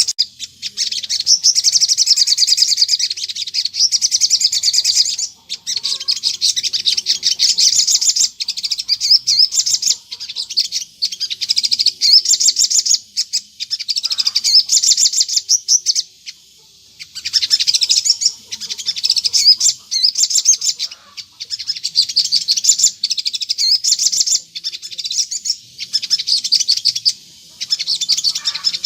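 A sogon, a small songbird, singing rapid high-pitched chattering phrases in runs of several seconds with brief pauses. This is a recording of continuous song used as a lure to draw an answer from other sogon birds.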